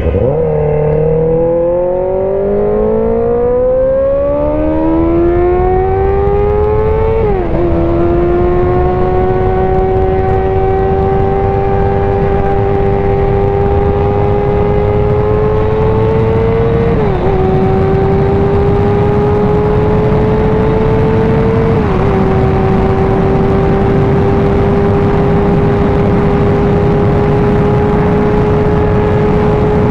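Suzuki GSX-R sport bike's inline-four engine accelerating on the highway: the engine note climbs steadily for about seven seconds, drops with an upshift, then holds near steady at cruising speed, with two brief dips in pitch later on. Heavy wind rush on the rider-mounted microphone runs under it.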